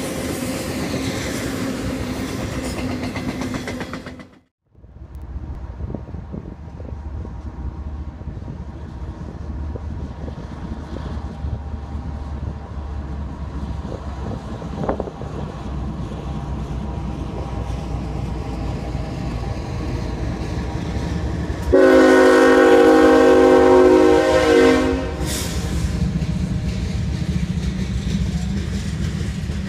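A double-stack container train rolling by, then, after a cut, Union Pacific diesel locomotives running as they lead a covered-hopper train past. About three quarters of the way in comes one horn blast of about three seconds, several tones sounding at once and the loudest sound, followed by the hopper cars rolling by.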